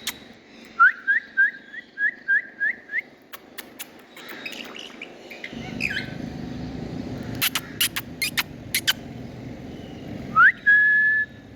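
Indian ringneck parrot whistling: a quick run of about eight short rising chirps, sharp clicks in between, and near the end one rising whistle held for about a second.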